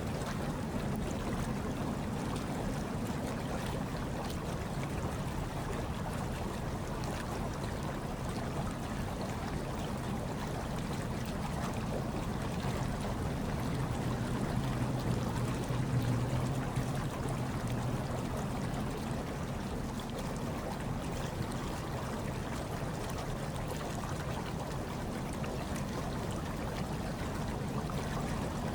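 Hot tub water bubbling and churning steadily over a low hum, swelling slightly about halfway through.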